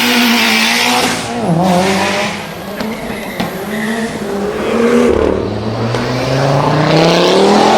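Car engines revving and accelerating, their pitch dipping and climbing. A loud hiss, possibly tyre noise, fills the first second, and one engine note rises steadily over the last three seconds as a car accelerates away.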